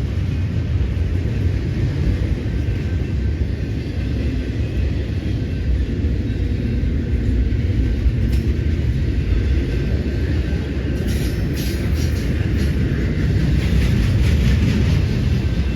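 CSX double-stack container train rolling past with a steady low rumble of wheels and cars. Clicks and knocks from the wheels join in after about ten seconds.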